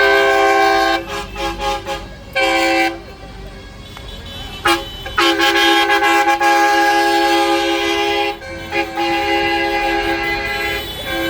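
Horns of tractors honking in a series of toots: short blasts early on, then longer ones, the longest lasting about three seconds, with two close horn notes sounding together.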